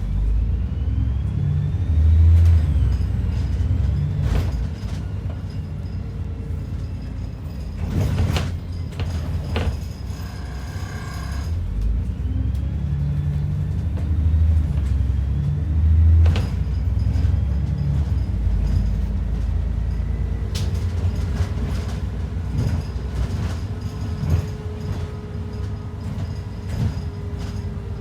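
Inside an ADL Enviro 400 double-decker bus on the move: the engine's low rumble swelling and easing, with sharp knocks and rattles from the body and fittings every few seconds.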